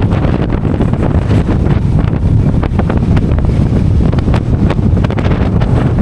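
Strong wind buffeting the microphone: a loud, steady low rumble broken by many short pops.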